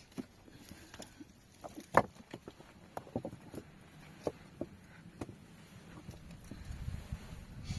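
Irregular knocks and clicks, with one much louder knock about two seconds in and a low rumble near the end.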